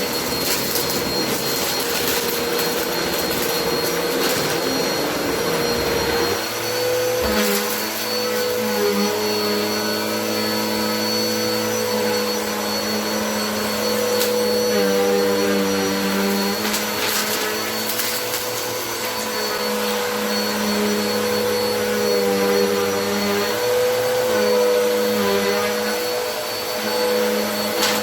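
Vacuum cleaner running steadily, its motor tone and high whine wavering in pitch as the airflow changes. Scattered crackles come through as bits of household dirt are sucked up.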